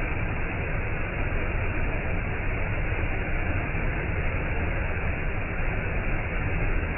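Waterfall: a steady, deep rush of falling water that holds even throughout.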